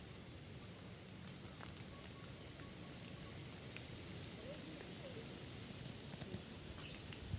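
Faint outdoor ambience: a steady low rumble with a thin high tone that stops and starts, a few faint short chirps around the middle, and soft clicks toward the end.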